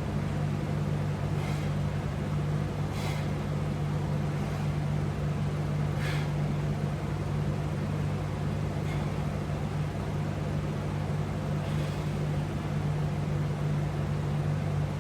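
A steady low hum with faint light ticks about every one and a half seconds.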